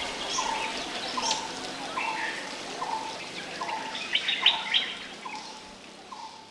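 Wild birds calling: one bird repeats a short low note a little more than once a second while others give scattered higher chirps, a quick burst of them about four seconds in, all fading out toward the end.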